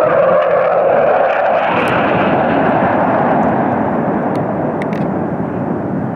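Fighter jet passing low overhead: a loud jet-engine roar that is strongest at the start and slowly fades as the aircraft moves away.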